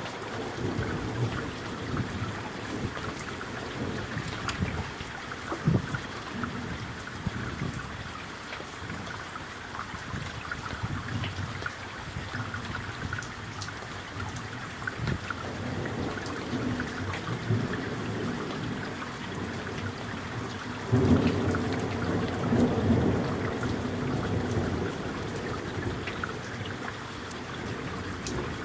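Summer thunderstorm: steady rain falling, with low rolling rumbles of thunder throughout. About three-quarters of the way in, a louder peal of thunder starts suddenly and rumbles on for a few seconds.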